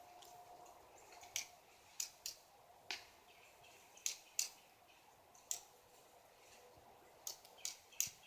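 Pileated woodpecker pecking at wood: about ten sharp, irregular taps over faint outdoor background.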